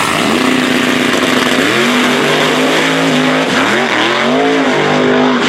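Drag race car's engine revving, with a steady noisy background throughout. About two seconds in, its pitch climbs and holds level at high revs, then drops and climbs again several times.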